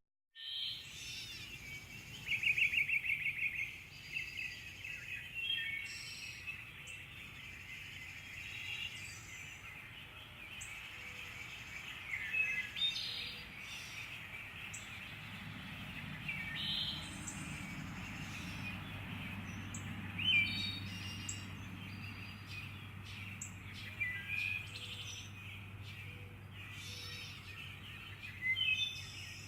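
Several birds calling and chirping, with one fast trill about two seconds in, over a steady background hiss. A low steady hum comes in about halfway through and continues under the calls.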